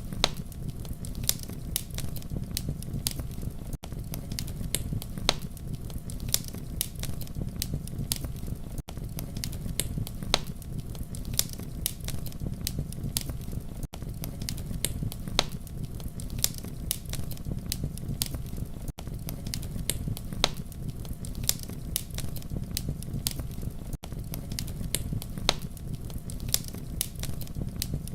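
Campfire crackling, with frequent sharp pops and snaps over a steady low rumble of burning. Brief silent dropouts come about every five seconds.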